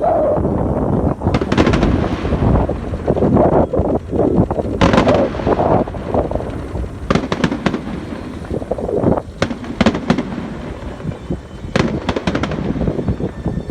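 Fireworks going off: a string of sharp cracks and heavier bangs, several in quick clusters, with strong wind rushing over the microphone.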